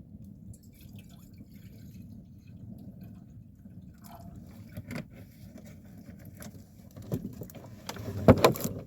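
Water being poured into a camping coffee pot, a steady low pouring sound, with a few clicks and knocks in the second half, the loudest near the end.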